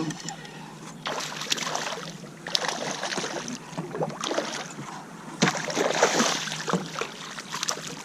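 Water splashing in irregular bursts beside a kayak, with a few sharp knocks or clicks among them.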